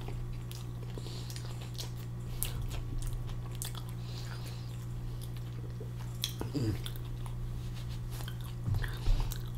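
Close-miked chewing of a mouthful of wrap, with small wet mouth clicks over a steady low hum, and a brief voiced 'mm' about six and a half seconds in.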